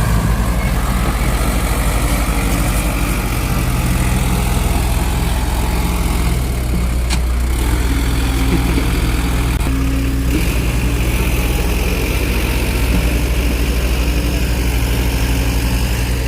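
A heavy diesel engine of earth-moving machinery running steadily at an even speed with a deep, constant throb. A single brief tick is heard about seven seconds in.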